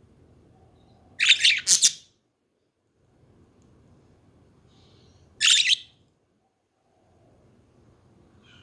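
Pet budgerigars chirping: two short bursts of high, quick chirps, one about a second in and another about five seconds in.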